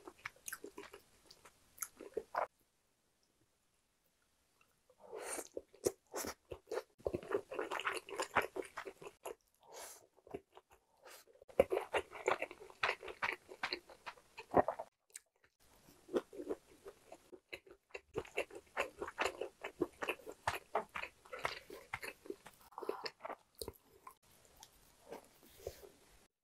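A person chewing and biting food, with crunching, in uneven bursts of short crackly mouth sounds. There is a silent gap of a couple of seconds about three seconds in.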